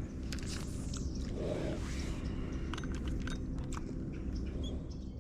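Steady low motor hum with scattered light clicks and knocks.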